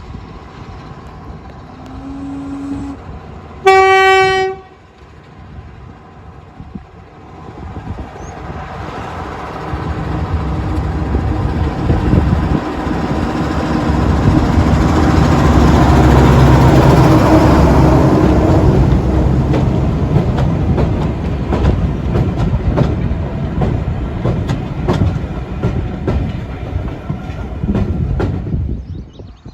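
Class 03 diesel shunter with its Gardner eight-cylinder diesel: a short horn blast about four seconds in, preceded by a fainter lower note. The locomotive then runs past, its engine and wheels growing loud towards the middle. Clicking wheels over rail joints follow as it draws away and fades.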